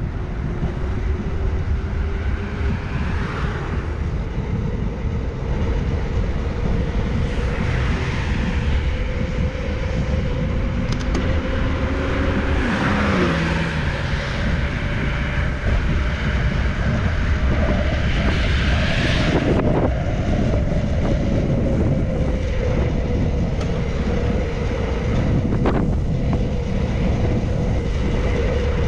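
Road and traffic noise heard from a moving bicycle, with low wind rumble on the microphone; about halfway through, a passing vehicle's pitch drops as it goes by.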